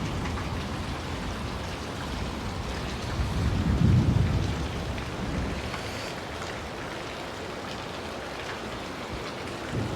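Steady rain falling, with a low rumble of thunder that swells and fades about four seconds in.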